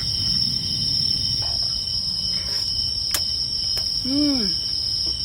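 Crickets chirping in a steady, high-pitched chorus. A sharp click comes about three seconds in, and near the end a short voice-like call rises and then falls.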